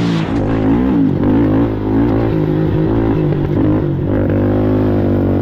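Racing ATV engine running hard, its pitch rising and falling as the throttle opens and closes.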